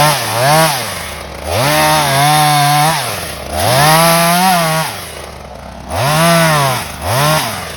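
Two-stroke chainsaw revving in a series of about six bursts, its pitch swooping up and falling back toward idle between them, then settling to a low idle near the end.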